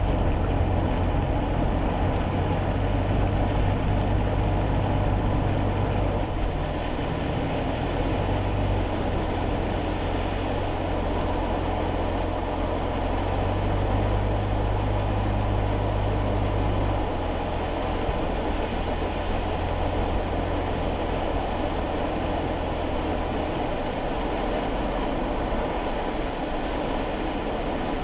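Kei car driving on a wet road, heard from inside the cabin: a steady low engine and road drone under a haze of tyre and rain noise. The low hum steps up and down in pitch a few times.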